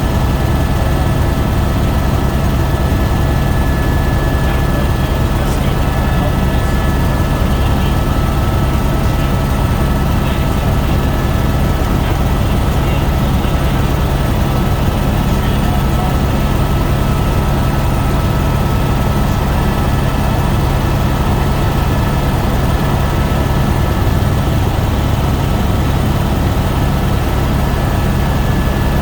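Helicopter in steady flight: a constant low drone of rotor and engine noise with a thin steady whine above it.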